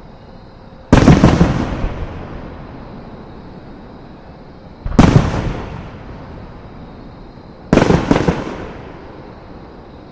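Aerial fireworks shells bursting: three loud bangs, about a second, five seconds and eight seconds in, the last a quick double bang. Each one trails off over a second or two.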